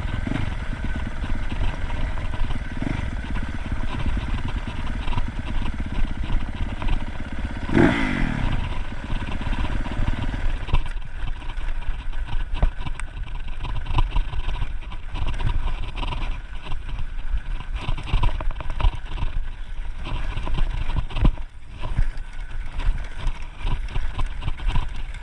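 Dirt bike engine running during a ride, its pitch falling away as the revs drop about eight seconds in, over a constant low rumble with scattered knocks.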